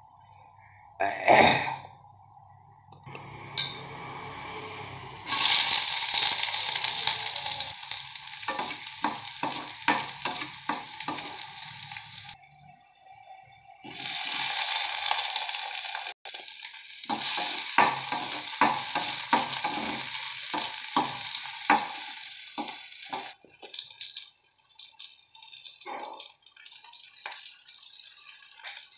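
Hot oil sizzling in a stainless steel kadai as chopped onion, green chillies and tomatoes fry, with a spoon knocking and scraping against the pan as they are stirred. A couple of clanks come first. The sizzle starts suddenly about five seconds in, breaks off around twelve seconds, comes back loudly about a second later, and dies down to scattered stirring clicks near the end.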